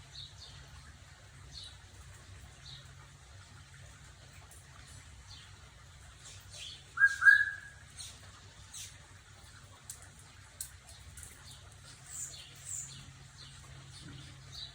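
Small birds chirping on and off, short high notes scattered throughout, with one much louder short squeak that rises and falls in pitch about halfway through, over a low steady hum.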